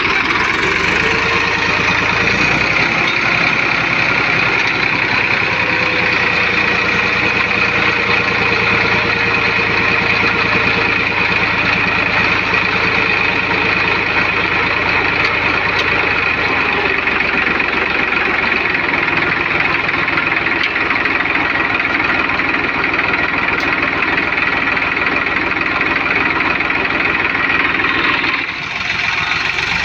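Eicher 333 tractor's diesel engine running steadily with an even low beat while it works to pull a sand-loaded trolley stuck in sand. The sound drops briefly near the end.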